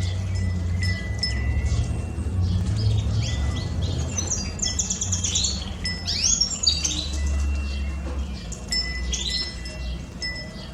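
Wind chime ringing in the breeze, its tones held and overlapping, while pet canaries sing rapid trills and chirps, busiest in the middle. A low rumble of wind runs underneath.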